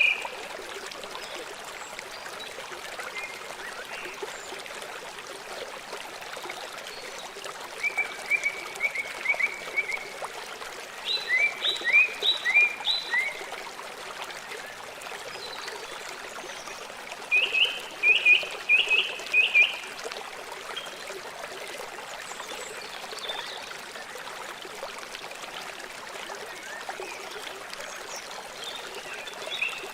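Steady rushing of a flowing river, with animal calls heard four times over it as short runs of quick, high chirps.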